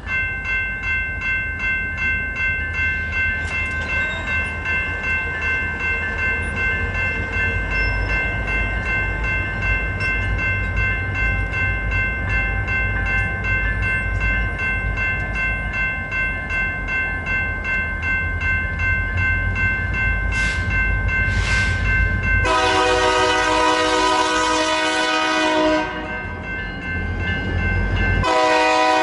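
A bell ringing steadily, about two to three strokes a second, over the low rumble of BNSF SD40-2 diesel locomotives approaching. About twenty-two seconds in, the locomotive horn sounds a long, loud blast, and it sounds again near the end.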